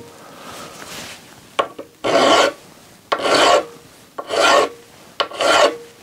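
Hand file rasping back and forth on a part's edge in four even strokes about a second apart, after a short stroke at first.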